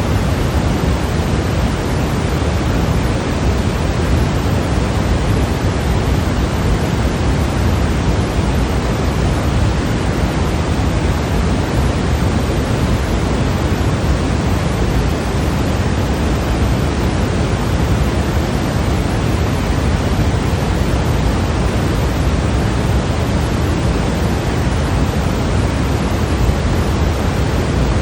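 Continuous white noise for sleep: a steady, unchanging hiss, heavier in the low end.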